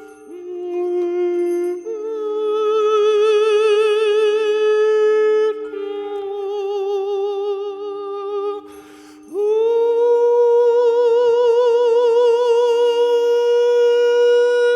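Wordless vocal toning for sound healing: a singer holds long vowel tones with a slow vibrato over a steady drone. The pitch steps between a few held notes, and an audible breath about nine seconds in is followed by a note that slides up and is held to the end.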